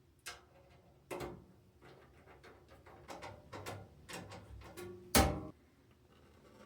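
Computer parts being handled and fitted into a PC case: a series of small clicks and knocks, with one louder knock about five seconds in.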